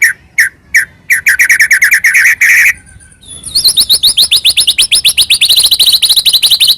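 White-rumped shama (murai batu) singing: fast trills of repeated notes, a brief pause about three seconds in, then a rapid run of sweeping high notes, about eight a second.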